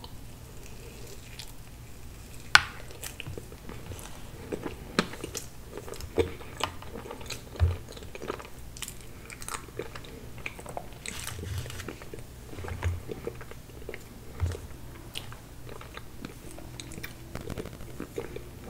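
Close-miked ASMR eating sounds of tiramisu cake with a chocolate-flake coating: biting, wet chewing and soft crunches. Sharp clicks come every second or two, the loudest about two and a half seconds in.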